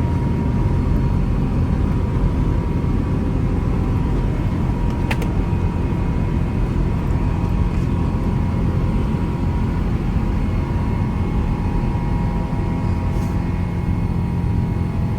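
Boeing 777 jet engines and airflow giving a steady, loud rumble inside the passenger cabin during takeoff and climb, with a faint steady whine and one brief click about five seconds in.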